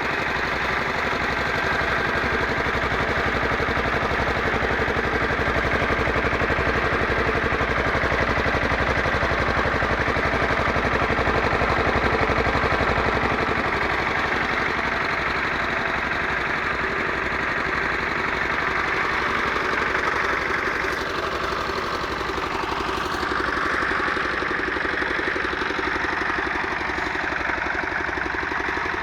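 Pasquali walking tractor's Lombardini air-cooled diesel engine running steadily with an even beat, its tone shifting briefly about three-quarters of the way through.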